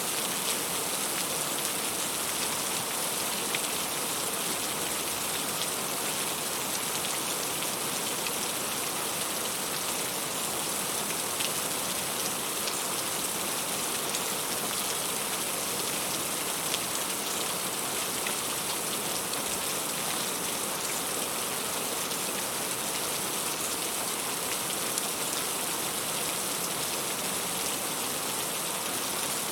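Heavy rain falling steadily, a dense even hiss with scattered close drop hits on leaves.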